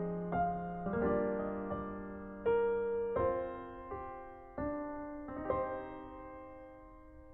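Background music: slow, gentle solo piano, with notes and chords struck every second or so and left to ring, fading away near the end.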